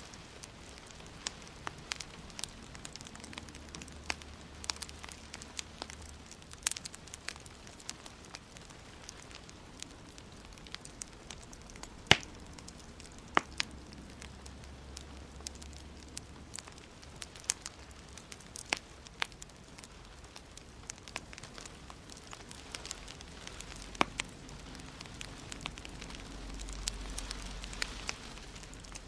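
Wood fire crackling in a fireplace: irregular sharp pops and snaps over a steady hiss, with one louder pop about twelve seconds in.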